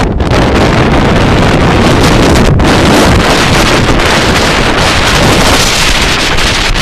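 Strong storm wind buffeting the microphone: a loud, continuous rumble and hiss that buries any other sound.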